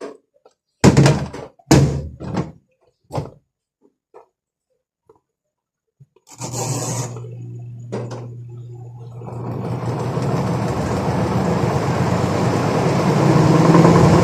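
Four loud thunks, then a washing machine motor starts about six seconds in and the drum spins up, a steady hum that grows gradually louder. It runs without the drive noise that the repair was meant to cure.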